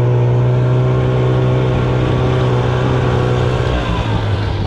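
Snowmobile engine running at steady high revs under way, its pitch easing slightly near the end.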